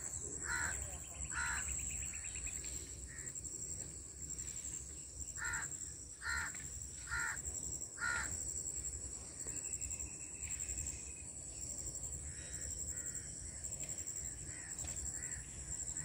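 A bird giving short, harsh calls one after another, four in quick succession about five to eight seconds in and fainter ones later, over a steady high-pitched insect drone.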